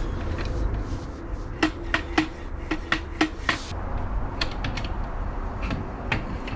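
Parts of a Squirrel Buster Plus bird feeder being handled and fitted together: a run of light hard clicks and knocks, several in quick succession between about one and a half and three and a half seconds in, then a few more spaced out.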